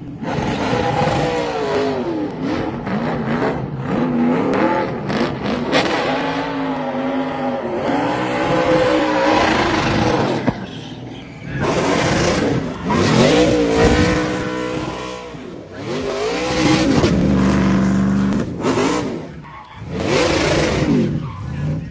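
NASCAR Truck Series race truck's V8 engine revving hard, its pitch rising and falling again and again, with tires squealing as it does a victory burnout.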